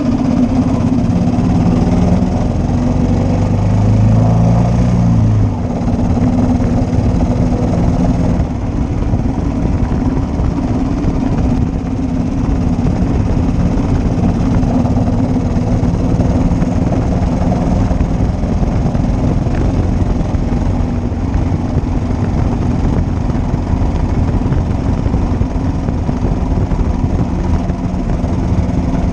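1941 Matchless G3L's single-cylinder engine running on the move, with heavy wind and road rumble. The engine note climbs and drops away about five seconds in, then holds steady.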